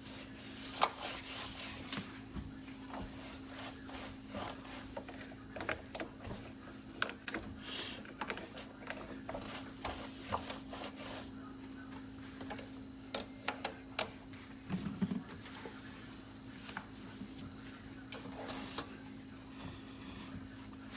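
Hand cleaning of a glass cooktop: irregular rubbing and scraping strokes with small clicks and knocks, over a steady low hum.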